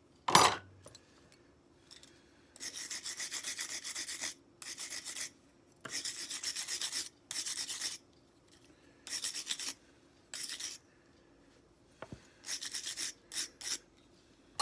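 Quick back-and-forth rubbing strokes of hand abrasion on the folding knife's parts, in bursts of about a second with short pauses between. There is a sharp knock just after the start.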